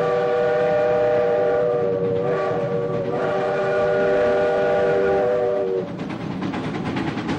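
Skunk Train locomotive's whistle sounding a chord of several steady tones in long blasts, with a brief break midway. It then stops, leaving the rumble and clatter of the train running on the rails.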